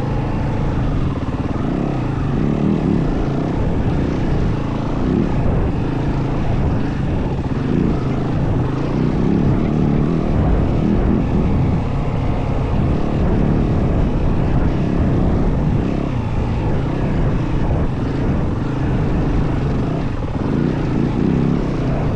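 Yamaha WR450F single-cylinder four-stroke enduro engine running steadily under way, its level wavering a little with the throttle.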